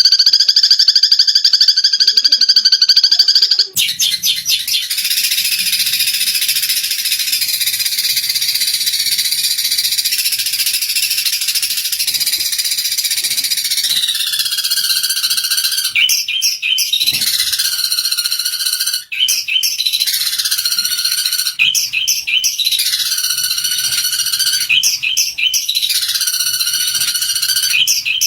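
Eurasian tree sparrows chattering in a squabble: loud, rapid, high chirps. About a third of the way in the sound changes abruptly, and in the second half the calls become repeated downward-sliding chirps, roughly one a second.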